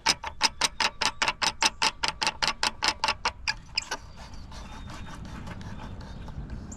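Rapid, evenly spaced electronic ticking beeps, about six a second, that stop about four seconds in, typical of a laser level's receiver on a grade rod reading the beam while the excavation depth is checked. A low steady rumble continues underneath.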